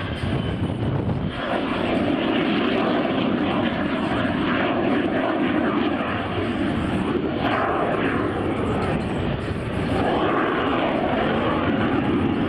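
Airplane engine noise running loud and steady, with a faint steady tone in it; it grows slightly about a second in.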